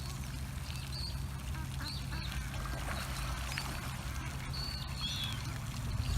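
Ducks quacking, with several short, high bird calls scattered through, over a steady low hum.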